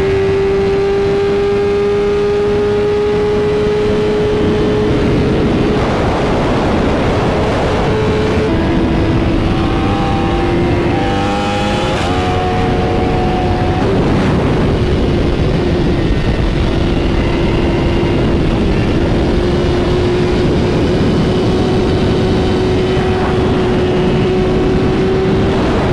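Motorcycle engine running at a steady cruise under heavy wind and road noise. Its pitch rises slowly, drops about eight seconds in, wavers for a few seconds around the middle, then holds steady again.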